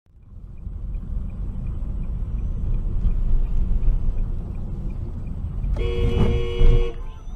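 Steady low road and engine rumble of a moving car, with faint rapid ticking in the first half. Near the end a car horn sounds once, held for about a second.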